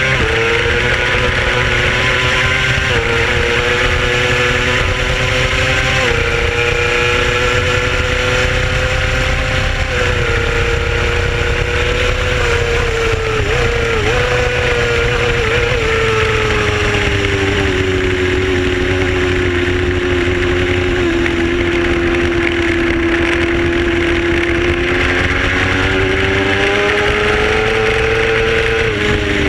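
Racing motorcycle engine running hard at high revs, heard from onboard over a steady rush of wind. Its pitch jumps up slightly a couple of times in the first few seconds and wavers briefly midway. It then sags slowly, holds lower for several seconds and climbs again near the end.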